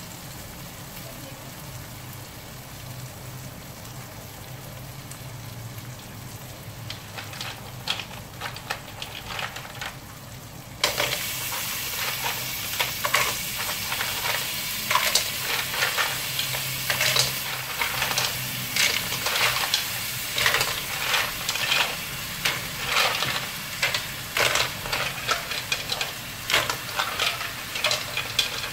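Tomato and aromatics frying gently in a wok. About eleven seconds in, a bowl of mussels is tipped in and the sizzling suddenly gets much louder. From then on the frying goes on, with many sharp clicks and clatters as the mussels are stirred.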